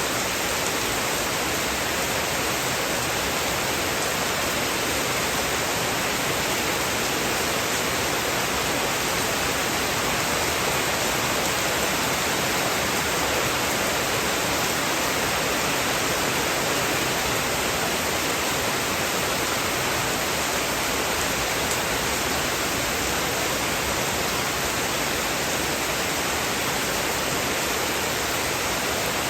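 Heavy rain falling steadily, an even hiss with no breaks and no thunder.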